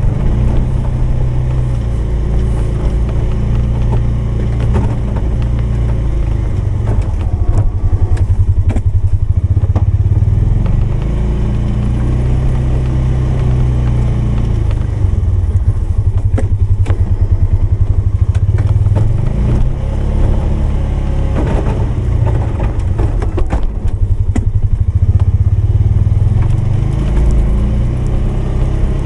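Polaris 570's engine running under load, its revs rising and falling every few seconds, with scattered clatters and knocks.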